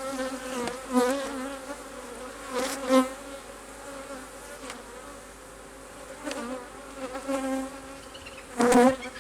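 Honey bees buzzing around an open hive: a steady drone, swelling loudly several times with a wavering pitch as bees come close.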